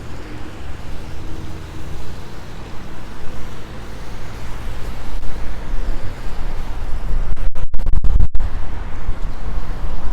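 Street traffic passing with wind buffeting the lapel microphone, a low rumble that swells about halfway through and is loudest near the end, broken by a few brief dropouts.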